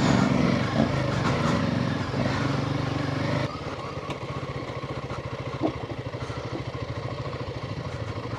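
Royal Enfield Himalayan 450's single-cylinder engine running, louder at first, then dropping abruptly about three and a half seconds in to a steady, evenly pulsing idle.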